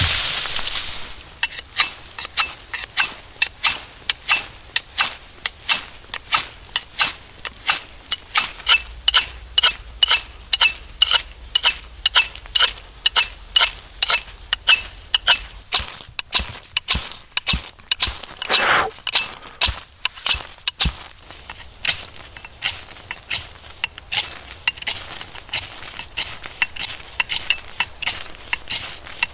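A steady, even series of sharp metallic clinks, about two or three a second, kept up throughout.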